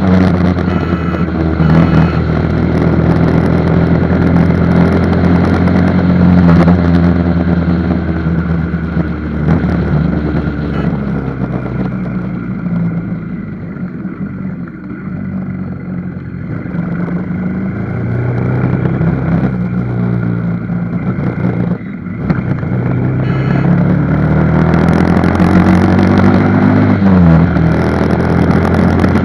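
Motorcycle engine running on a ride, its pitch rising and falling repeatedly as it speeds up and slows down, quieter for a stretch in the middle and briefly dipping a little after two-thirds of the way through.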